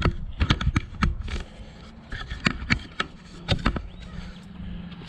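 High-lift jack being worked, its ratchet clacking in sharp metallic knocks, several coming in quick pairs. A faint steady hum sets in near the end.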